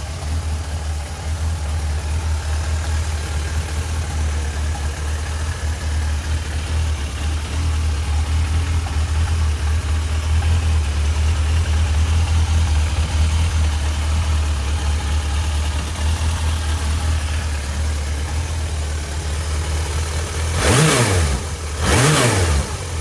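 1987 Suzuki GSX-R1100H's inline-four engine idling steadily, then blipped twice near the end, the revs rising and falling quickly each time.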